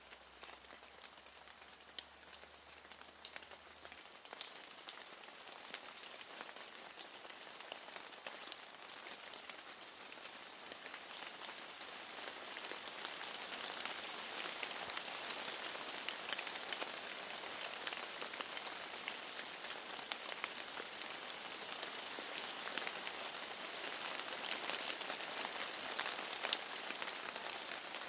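Steady rain with a fine patter of drops, growing heavier about halfway through.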